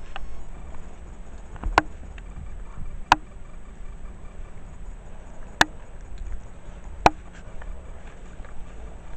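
Four sharp knocks or taps, spaced irregularly over a few seconds, over a steady low background rumble.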